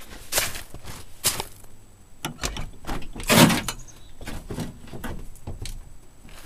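Clicks, knocks and thumps of a pickup truck's door being unlatched and pulled open, with scattered handling noises, the loudest thump about three and a half seconds in.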